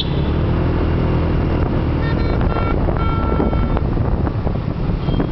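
Motorbike traffic running steadily, with a horn sounding twice, each time for under a second, about two and three seconds in.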